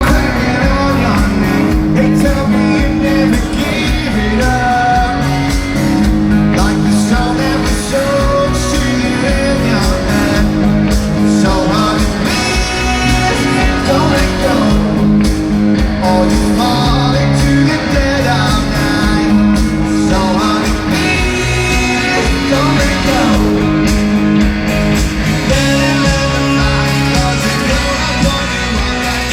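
Rock band playing live, with electric guitars, bass, drums and a lead vocalist singing over a steady beat.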